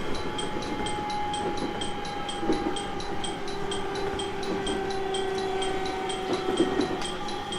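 Onboard running sound of a JR East 701 series 1000-subseries electric train: steady rail and running noise with a motor whine that falls slowly in pitch, and a few knocks from the wheels over rail joints.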